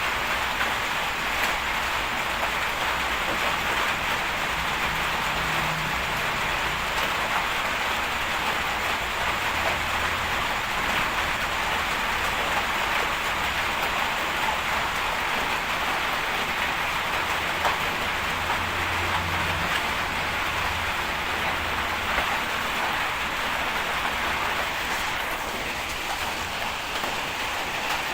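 Steady hiss of heavy rain, with a faint low engine hum coming and going.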